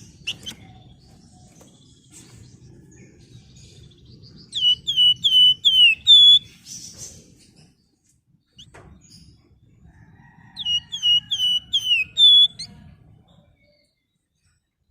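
Flamboyan songbird singing two phrases, each a quick run of about five falling whistled notes ending in a short held higher note, with a faint low rumble underneath.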